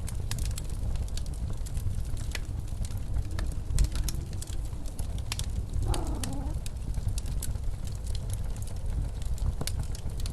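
Wood fire crackling with frequent sharp pops, over the steady low rumble of blizzard wind. About six seconds in, the wind gives a brief howl that bends in pitch.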